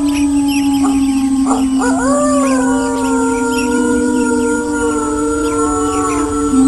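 Several wolves howling together in long overlapping howls: one low note held throughout, and a new howl rising about a second and a half in, then gliding slowly down. Faint high chirps run underneath.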